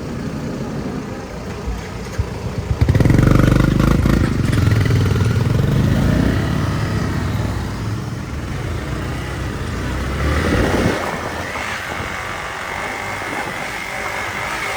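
Motorcycle running as it is ridden onto a rough dirt track, with a louder low rumble for several seconds from about three seconds in.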